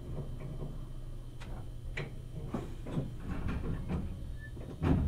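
Interior running sound of a Meitetsu 1000 series Panorama Super train: a steady low rumble with a string of clicks and knocks, and one louder thump near the end.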